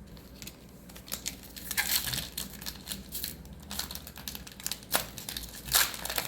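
Foil booster-pack wrapper crinkling and tearing as it is opened, in uneven bursts with a louder rustle about two seconds in and again near the end.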